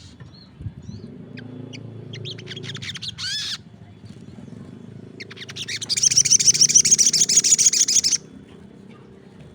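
Sogon songbird singing: a quickening series of chirps that ends in a few sweeping notes, then, after a short pause, a loud, very rapid trill lasting about three seconds. A steady low hum lies underneath.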